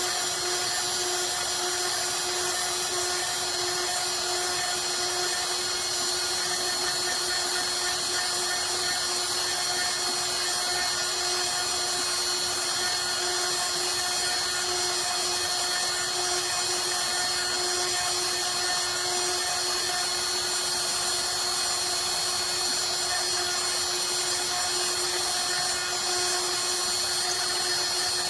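Bob's CNC router spindle running steadily while engraving a design into a wooden picture frame, a constant whine with several fixed pitches over a high hiss.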